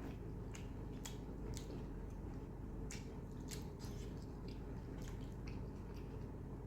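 Wet chewing and squishing of mutton curry and soaked roti, close to the microphone: irregular, short, sticky mouth sounds a few times a second over a steady low hum.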